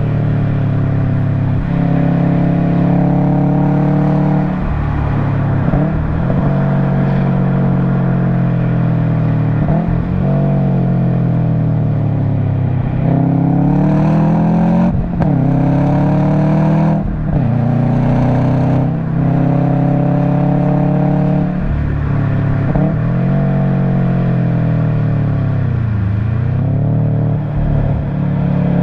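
Subaru WRX STI's turbocharged flat-four running through an Invidia Q300 aftermarket exhaust under hard track driving. The pitch climbs as it pulls through the revs and drops abruptly at each gear change or lift, about ten times, with one deeper dip and recovery near the end.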